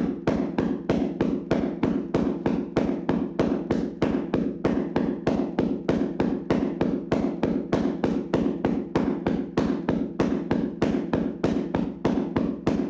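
Hands slapping on a person's body in a vigorous tapping massage: steady rhythmic slaps at about four a second.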